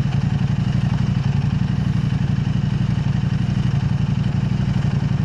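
KTM 890 Adventure R's parallel-twin engine running steadily through an aftermarket Arrow Race-Tech exhaust, an even low engine note with no revving.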